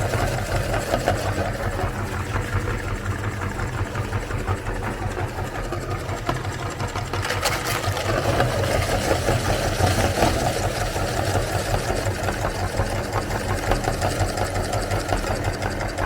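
Electric meat grinder running steadily with a constant low motor hum, grinding colourful cookies.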